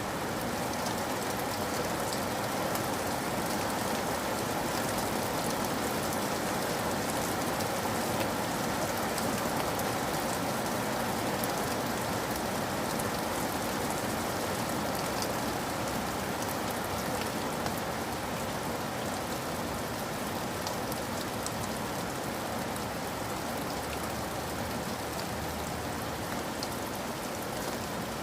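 Steady rainfall, an even hiss of rain on a surface with scattered small drop ticks.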